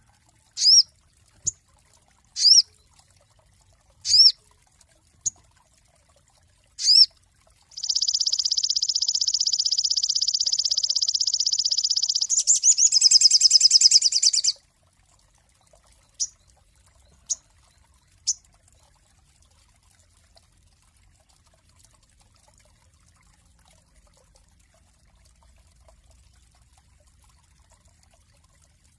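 Sogon songbird singing: a string of short, sharp, high chirps, then a long steady buzzing trill of about four seconds that breaks into a faster rattling trill, followed by three more quick chirps.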